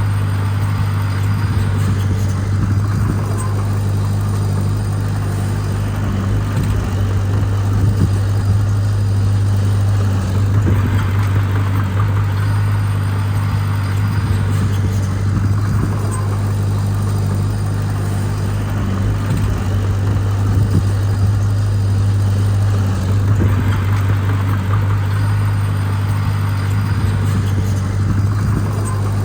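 Heavy diesel engine running steadily, a low drone that holds one pitch, with a harsher mechanical noise that swells and fades several times.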